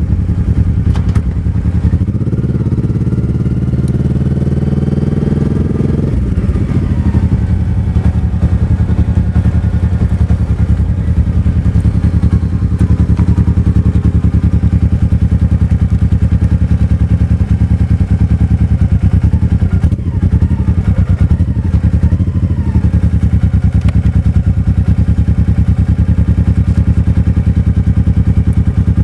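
Motorcycle engine under way, pulling up in pitch for a few seconds, then dropping sharply about six seconds in as it shifts up a gear. After that it runs steadily at cruising speed.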